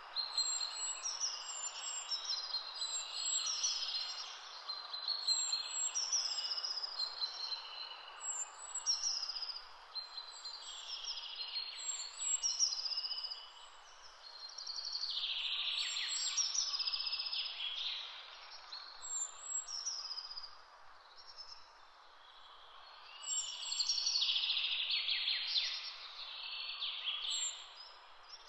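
Birds chirping and singing in quick repeated calls over a steady background hiss, easing off for a few seconds near the middle.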